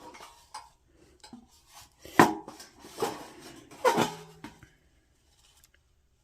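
Thin sheet-metal plates of an ultralight folding fire pit clanking as they are handled: a few sharp knocks, the loudest about two, three and four seconds in, the last with a short metallic ring.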